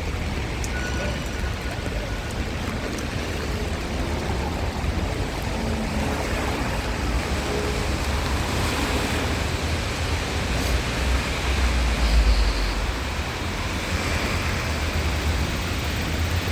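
Steady hiss of rain falling on a city street, with a low rumble of traffic underneath that swells about twelve seconds in.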